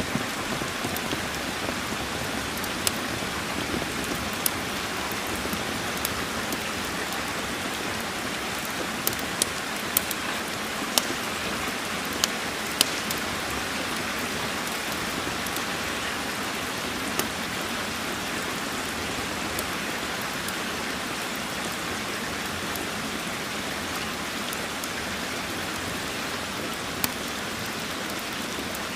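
Steady rain falling, an even hiss, with scattered sharp pops and ticks, a cluster of them around the middle.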